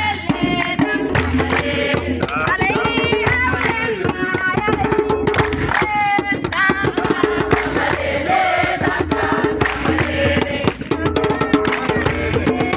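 Drums beaten in a fast, dense rhythm, with voices singing over them.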